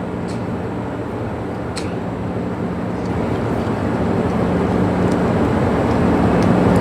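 Steady cabin noise inside a private jet: an even rush of air and engine with a low hum, growing gradually louder toward the end.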